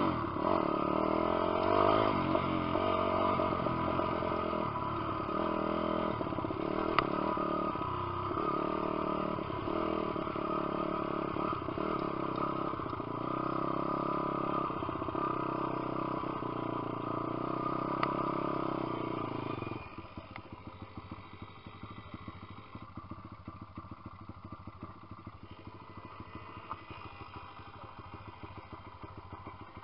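A Lifan 150cc single-cylinder four-stroke pit bike engine running hard, its revs rising and falling, then dropping suddenly to a much quieter, pulsing sound about twenty seconds in.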